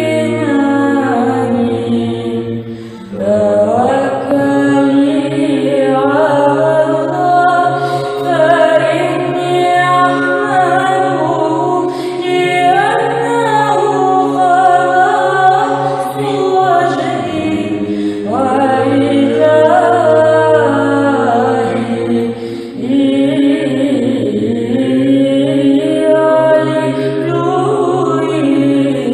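Women's choir chanting an unaccompanied Byzantine psalm setting in Arabic in the third tone: the melody moves and ornaments above a steady low drone (ison). There are short breaks between phrases about 3 and 22 seconds in.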